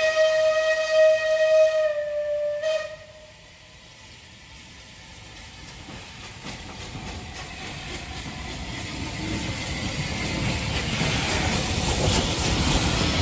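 Steam locomotive whistle sounding one long steady note that stops about three seconds in, then the noise of a train approaching, growing steadily louder.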